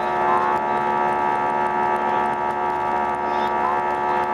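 Airbus A319 jet engines droning steadily, heard from inside the cabin, with many level, unchanging tones over a rushing noise.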